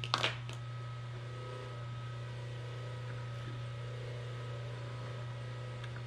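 A steady low hum throughout, with a quick cluster of two or three sharp knocks right at the start and a couple of faint ticks near the end.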